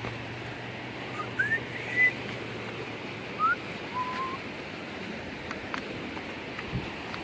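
A few short, rising bird whistles over the steady rush of water.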